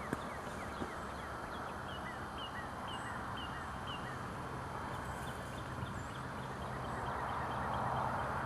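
A bird calling a long run of short downslurred notes, a few a second, that speed up and go higher partway through. Behind it is a steady rushing hiss that grows louder near the end.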